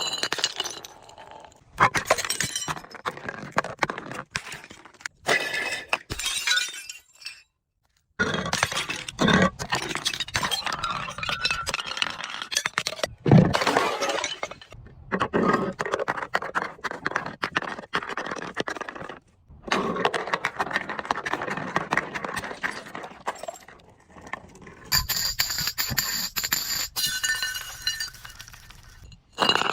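Glass bottles being crushed and smashed: repeated crunching, clinking and shattering of glass in short segments separated by abrupt cuts, with a high ringing of glass late on.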